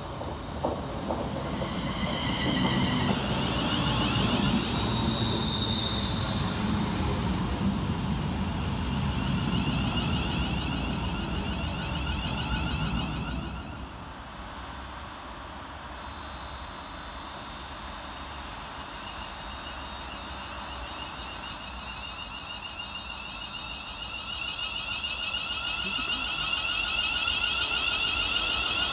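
Electric multiple-unit trains: one runs into the station with loud wheel and motor noise. About 13 s in, the sound drops sharply and stays quieter. From about 24 s a second electric unit's motors whine with rising tones and grow louder toward the end.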